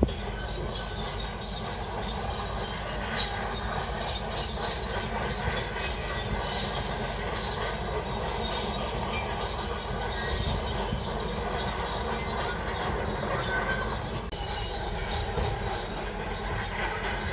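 Shantui DH17 crawler bulldozer working: steady engine noise with the metallic clanking and squealing of its steel tracks.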